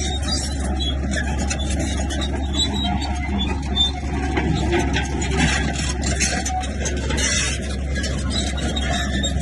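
Komatsu bulldozer's diesel engine running with a steady low drone, under a busy layer of clattering and scraping from the machine at work.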